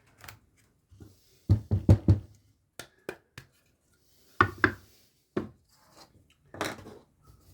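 Workshop handling noise: wood and tools being knocked and rubbed as they are picked up and set down. It comes as a quick run of four sharp knocks about a second and a half in, then a pair a few seconds later and a couple more single knocks.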